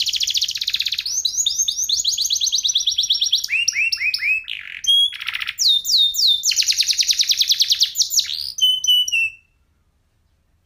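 Domestic canary singing a fast rolling song of rapid trills and quick whistled notes that sweep up and down. The song breaks off abruptly about nine seconds in.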